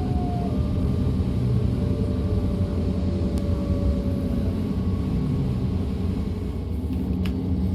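DB Class 425 electric multiple unit running along the track, heard from inside: a steady low rumble, with a thin whine from the traction drive gliding slowly down in pitch and fading out a little over halfway through. A single sharp click near the end.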